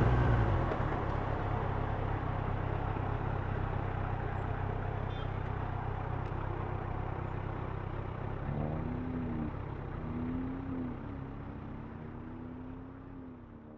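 Steady motor-traffic noise, with an engine revving up and down in the second half, the whole slowly fading out near the end.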